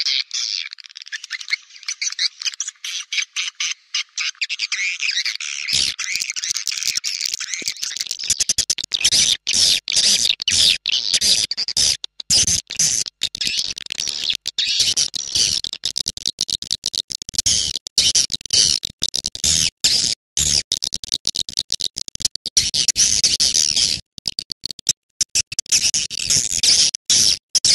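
Recorded swiftlet calls: dense, high chattering twitter, chopped by many brief drop-outs. It is a swiftlet lure call, played to draw swiftlets into a nest house.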